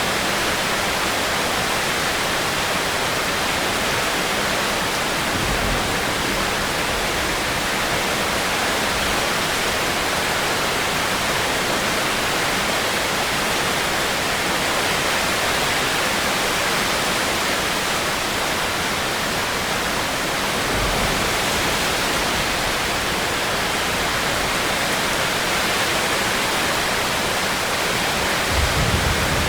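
Heavy rain falling steadily, an even hiss, with a few brief low rumbles rising under it, the last and strongest near the end.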